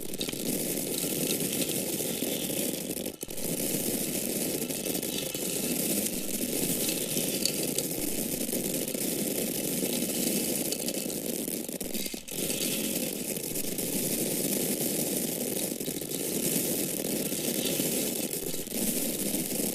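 Dry grains, such as corn kernels, pouring steadily in a continuous rattling patter, with brief breaks about three seconds in and again about twelve seconds in.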